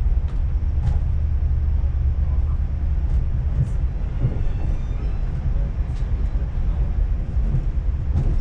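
Passenger train running along the line, heard from inside the carriage: a steady low rumble with a few faint clicks.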